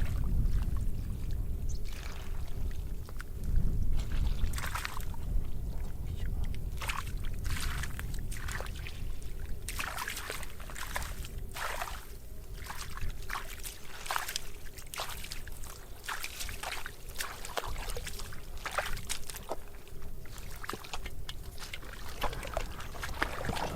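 Water splashing and sloshing in many short, irregular splashes over a low rumble, as of hands or a body moving through shallow water.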